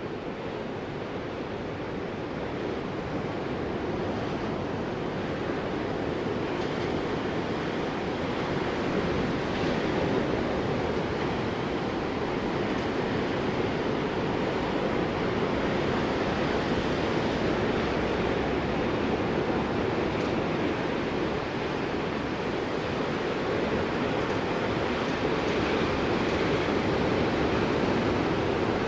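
Ocean waves washing onto a shore, a steady surf wash that swells gently, building up over the first few seconds.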